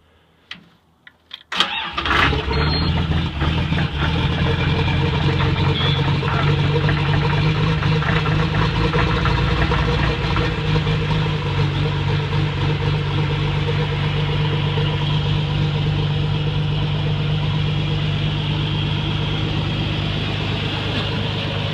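Caterpillar D3G bulldozer's diesel engine cold-started after glow-plug preheat: a few short clicks, then it fires almost at once about a second and a half in and settles into a steady idle. The machine had sat for a month iced over in freezing weather.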